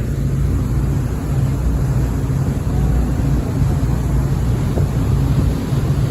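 Steady low drone of a fast ferry's engines running at speed, with wind buffeting the microphone.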